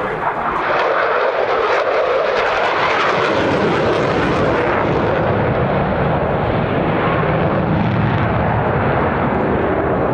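F-16 Fighting Falcon jet engine noise as the fighter passes during its flying display: loud and steady, the pitch sliding down over the first few seconds as it goes by, then a deep rumble filling in.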